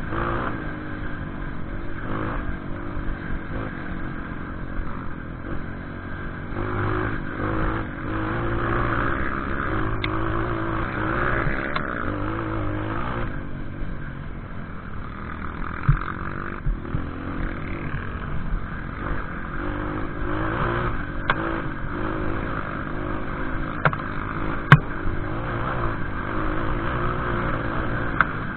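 Off-road trail motorcycle engine running, revving up and down as it is ridden over a forest trail, with a few sharp knocks.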